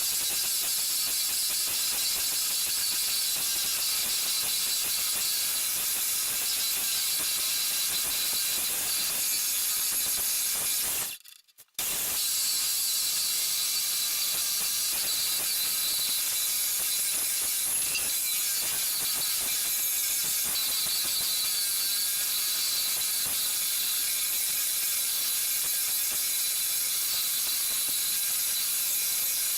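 Homemade wood lathe running while a turning tool cuts the spinning test piece, a steady rasping noise. It drops out abruptly for under a second about eleven seconds in.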